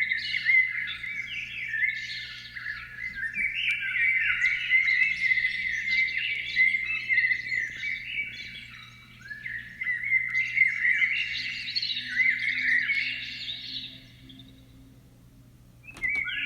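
A songbird singing long phrases of rapid twittering and trilling, with short breaks, one near the middle and a longer one near the end. A faint steady low hum runs underneath.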